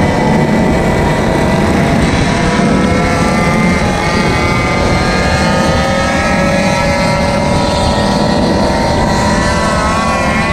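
Small engine of a ride-on scooter or mini bike running under way, with low wind and road rumble. Its pitch climbs gradually from about four seconds in as it picks up speed.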